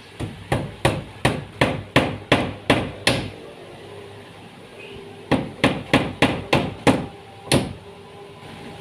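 Hammer striking wood in carpentry work. There is a steady run of about nine blows at roughly three a second, a pause of about two seconds, then six more blows and a single last one.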